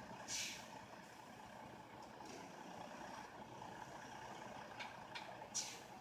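A stuck semi truck's engine running steadily at a distance, with two short sharp hisses of air from its air-brake system, one about half a second in and one near the end.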